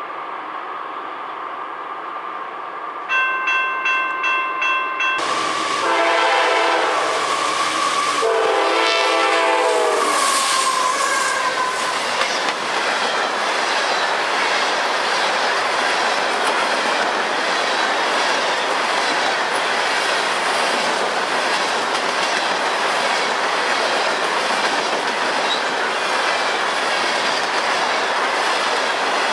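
A crossing bell rings a few seconds in, then a CSX diesel freight train sounds two long horn blasts and rolls past, a steady loud rush of cars with wheels clicking over the rail joints.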